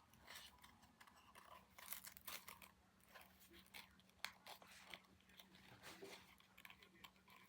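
Faint, scattered crinkling and small clicks of craft materials being handled, over a faint steady hum.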